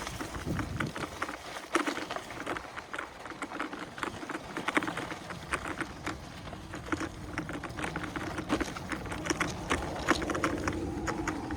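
An InMotion E20 electric unicycle rolling along a dirt single-track. The tyre crunches and ticks irregularly over the trail and dry plant stalks, over a low rumble and a steady hum.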